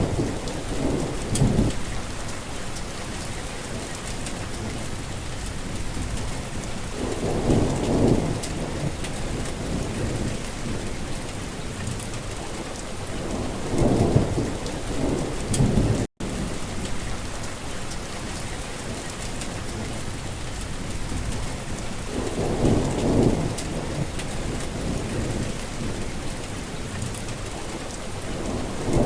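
Heavy rain falling steadily, with low thunder rumbling in repeated swells about every six seconds. The sound cuts out for an instant about midway.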